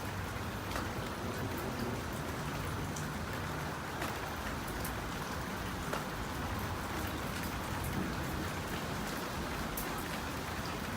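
Steady thunderstorm rain falling, with scattered sharp taps of drops hitting close by.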